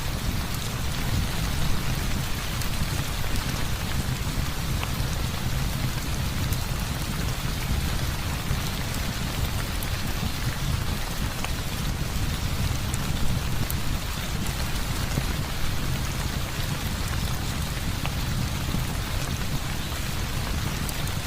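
Heavy rain falling steadily, with a low rumble underneath and scattered faint ticks.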